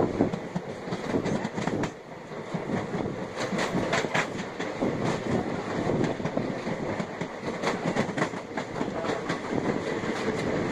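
Passenger train running along the track, heard from inside a carriage at an open window. A steady rumble of wheels on rails, with irregular clicks and clacks as the wheels cross rail joints.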